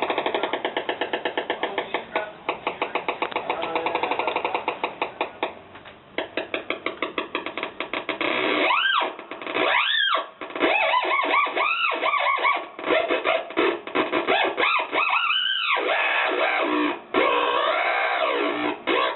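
Theremin sounding through a speaker: first a fast pulsing, stuttering electronic tone, then, from about halfway, sweeping pitch glides that arc up and down.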